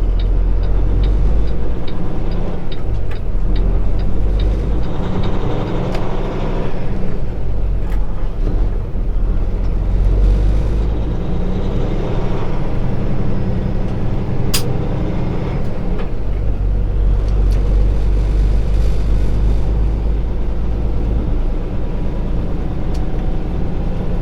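Kenworth T680 semi truck's diesel engine running as the cab-only truck drives in snow, a steady low drone whose pitch rises and falls a few times as the driver works the gears. Light, evenly spaced ticking sounds for the first few seconds, and a few sharp clicks come later.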